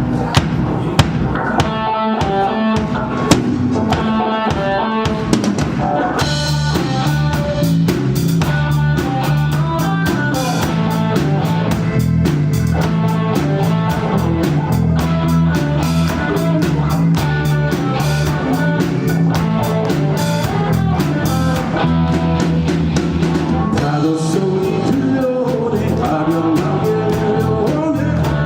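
Live band playing an instrumental song intro: drum kit with a pitched melody line, then the bass and the rest of the band come in fully about six seconds in and keep a steady groove.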